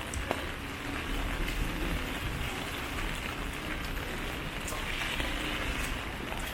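Steady rain, an even hiss with scattered sharp ticks of drops.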